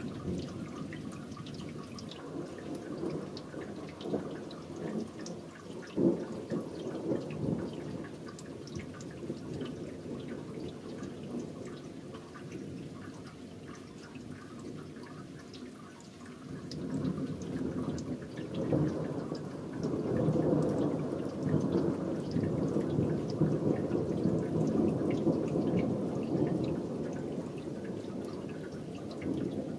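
Thunder rumbling over rain and dripping water, the rumble growing louder in the second half and rolling on for several seconds.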